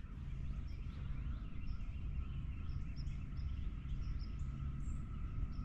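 Quiet morning outdoor ambience with a low steady rumble, a faint steady tone, and small birds chirping many times in short, high calls.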